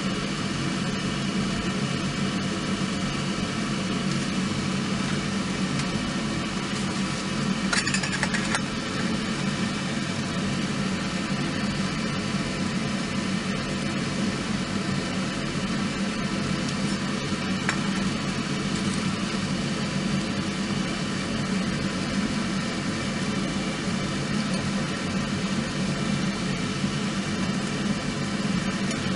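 Small wood fire burning in a compact fire stand: a steady rushing noise, with a few sharp crackles about 8 seconds in and again near 18 seconds.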